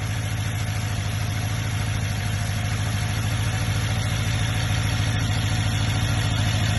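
BMW car engine idling steadily after a cold start, with an even, fast pulsing hum.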